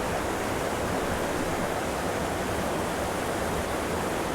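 Steady rush of a waterfall pouring into a deep pool, an even wash of falling water.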